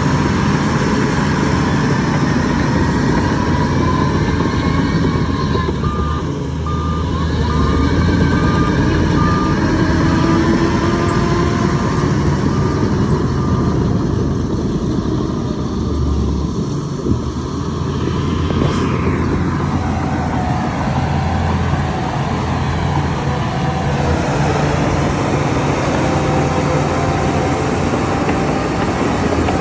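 Heavy diesel construction machinery running steadily. A reversing alarm beeps in an even series for several seconds, starting about a fifth of the way in.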